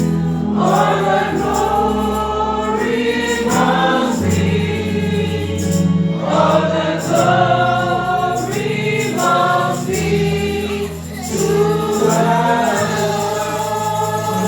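Gospel praise song: a choir or congregation singing over sustained keyboard chords and bass.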